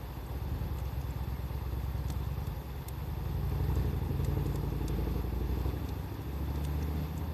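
A low engine-like rumble that swells to its loudest around the middle and shifts pitch near the end, over a wood fire giving a few isolated sharp pops.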